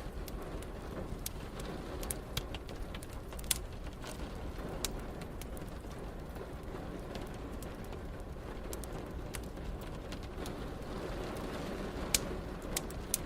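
Wood fire crackling, with irregular sharp pops (a couple of louder ones, one near the middle and one near the end), over a steady hiss of rain.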